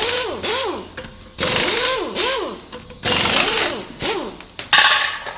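A repeated swooshing sound effect: four noisy blasts about 1.4 s apart, each with a tone that swoops up and back down.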